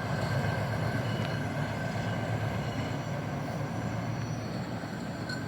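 Hi-rail truck running on the rails, a steady low rumble with a faint hum from the wheels, slowly fading as it moves away.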